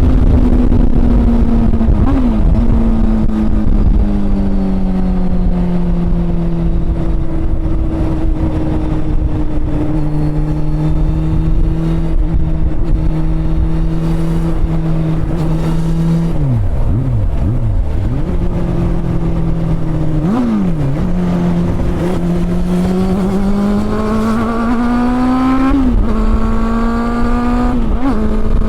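Honda CB400 Super Four's inline-four engine under way. The engine note eases down through the middle, with brief sharp dips at throttle changes, then climbs steadily in revs before dropping suddenly at a gear change near the end.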